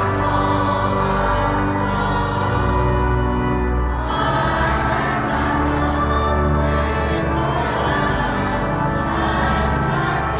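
Sacred music: a pipe organ holding long, steady chords with sustained bass notes, and a choir singing.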